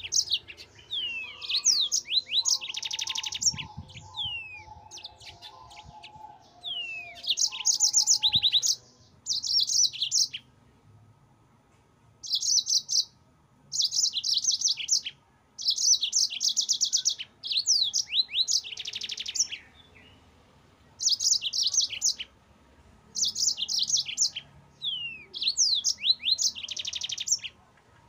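Yellow-fronted canary (Mozambique canary) singing in bursts of rapid rolling trills mixed with short down-slurred whistles. The phrases last about a second each with short pauses between them, and there is a longer pause about ten seconds in.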